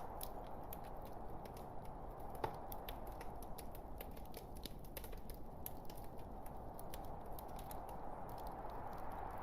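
Wood fire in a fireplace crackling: a steady hiss of burning logs with many small irregular snaps, and one louder pop about two and a half seconds in.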